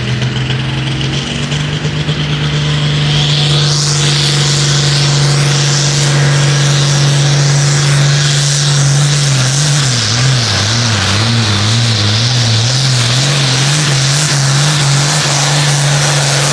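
Farm pulling tractor's diesel engine running flat out under load as it pulls the sled. The engine note steps up early on and holds steady, then from about ten seconds in it rises and falls rapidly and rhythmically before easing off at the end.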